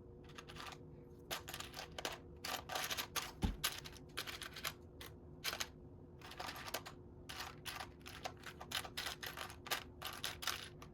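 Loose Lego bricks clicking and clattering against one another in irregular clusters as a hand sifts through a pile of pieces.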